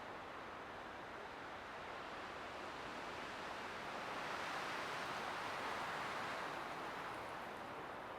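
Light wind blowing steadily as a soft hiss, swelling into a gentle gust about halfway through and then easing off.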